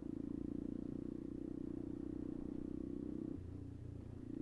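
Small motorcycle engine running steadily under way, a fast even pulsing hum; it eases off about three and a half seconds in and picks up again near the end.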